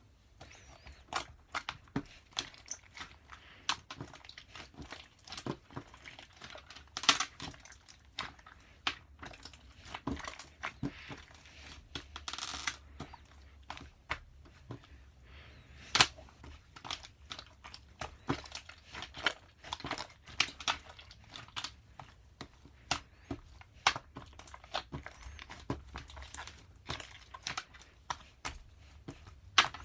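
Crinkling and tearing of material being handled by hand, with many small irregular clicks and taps.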